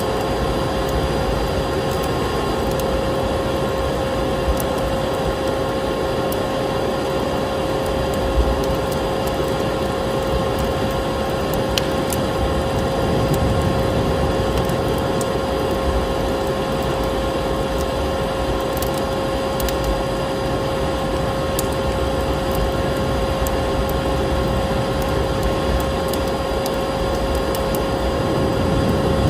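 Electric vacuum cleaner running steadily with a constant humming whine, over a wood fire in a fireplace crackling with scattered sharp pops.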